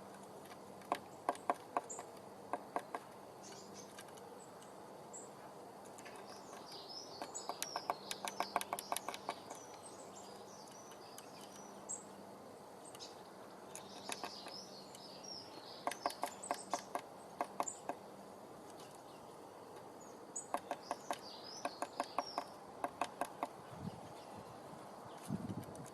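A bird pecking a hole, its beak striking in bursts of rapid taps, several series with pauses between. Short high chirps come with some of the bursts.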